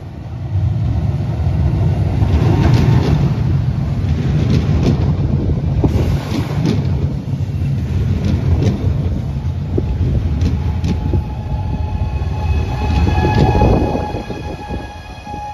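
Alstom Coradia Jazz electric train pulling into a station close alongside: a loud rumble with sharp clicks of the wheels over rail joints. Near the end, as the rumble fades and the train slows, a steady high whine of several tones sets in.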